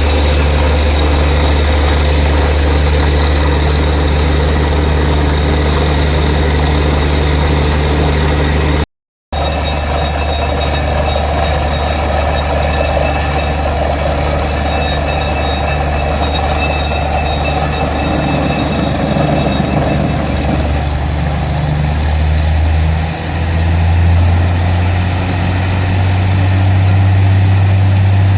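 Heavy engine of a borewell drilling rig running steadily with a deep hum. The sound drops out for a split second about nine seconds in. From about 23 seconds in, the engine note steps up to a higher pitch.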